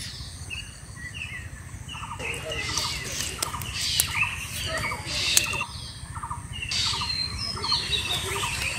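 Several small birds chirping and calling, with short trilled notes repeating over and over and a couple of sharp clicks about four and five seconds in.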